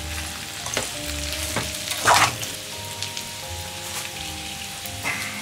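Potato slices, bacon and onion sizzling in olive oil in a frying pan, stirred with a spatula at the start, with one brief louder noise about two seconds in.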